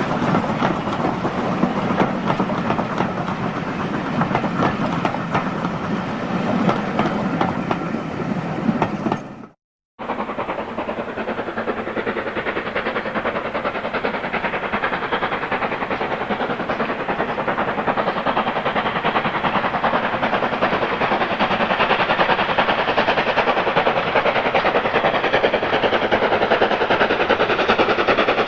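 Steam locomotive working a train along the line, with rapid exhaust beats and wheels clattering on the rails. The sound breaks off for a moment about ten seconds in, then another steam-hauled train runs on.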